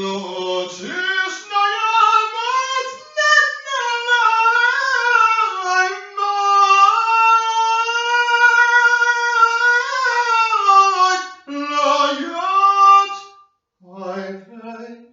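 A single high voice singing unaccompanied, in long held notes that waver up and down in pitch; the line drops lower about eleven and a half seconds in and breaks off briefly before a short lower phrase near the end.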